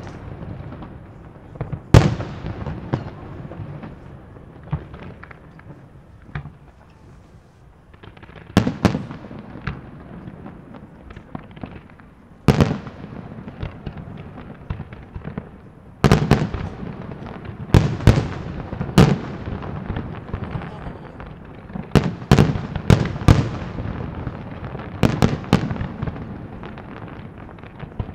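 Aerial fireworks display: shells bursting with sharp, irregularly spaced bangs and crackling between them. The bangs come thicker and faster in the second half.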